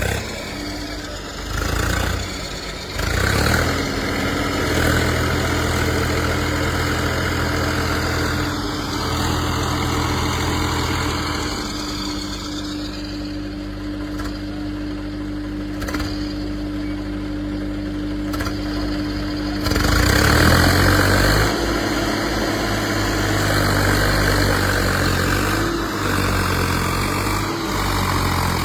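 Heavy diesel machine's engine running steadily, revved up a few times, near the start and again about twenty seconds in.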